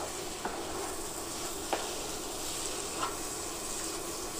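Prawns dry-frying in a spiced masala sizzle steadily in a nonstick pan as a spatula stirs them, with three light knocks of the spatula against the pan.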